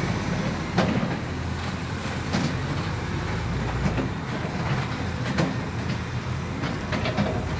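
Heavy diesel dump truck running at a low, steady rumble, with scattered metallic clanks and knocks over it.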